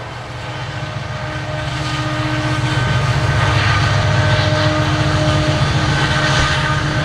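Coal train rolling past, its locomotive and then its hopper cars: a steady low rumble that grows louder over the first few seconds, with faint steady whining tones over it.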